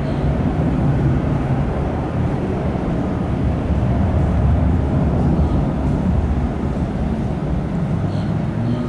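Aircraft engines running with a steady low rumble and hum.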